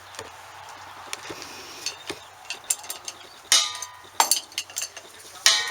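Metal parts and tools being handled: small clicks and clinks, then two loud metallic clanks, about halfway through and near the end, each left ringing.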